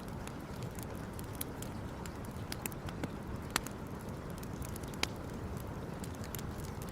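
Wood campfire burning, with irregular sharp crackles and pops over a steady low rushing sound.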